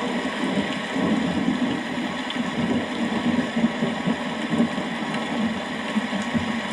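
Steady rain with a continuous low rumble underneath, with no distinct thunderclap.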